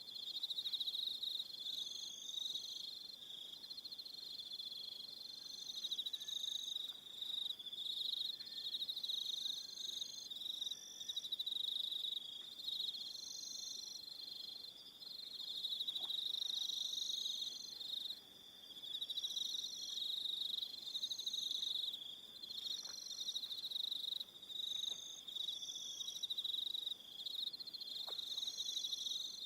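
Crickets chirping in a dense chorus: a steady, high-pitched trill with brief gaps, and shorter, higher chirps from other insects repeating every second or two.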